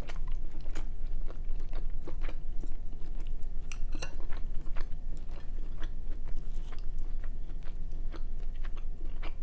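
Close-miked chewing and eating mouth sounds, with many small sharp clicks scattered irregularly throughout, over a steady low hum.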